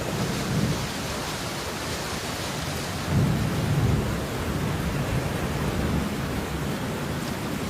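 Steady rain falling, an even hiss, with a deep low rumble that swells for about a second around three seconds in.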